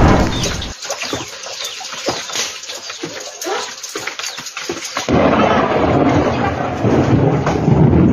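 Storm noise: a heavy rush of wind and rain that eases about a second in to scattered knocks and patter, then comes back suddenly about five seconds in.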